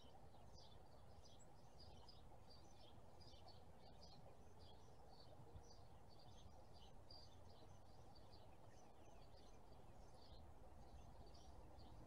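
Faint chirping of small birds: short, high notes repeating about two or three times a second over a low, steady background rumble.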